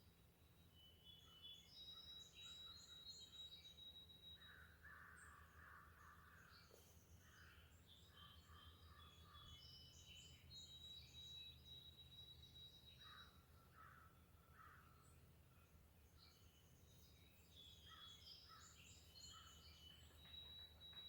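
Faint mixed birdsong: several birds giving high whistles, trills and chirps, with a long thin whistle held near the start, middle and end, and three bouts of lower, harsher repeated calls. A steady low hum lies underneath.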